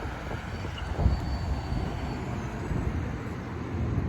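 Road traffic passing: a steady rush of car tyres and engines, with a short low thump about a second in.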